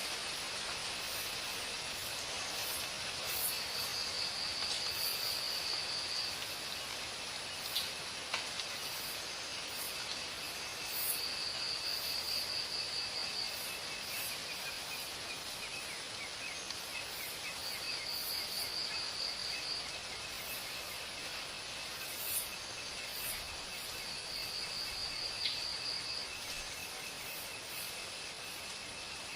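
Insect chorus of the forest: a steady high hiss and drone, with a louder buzzing trill that comes four times, each lasting two to three seconds.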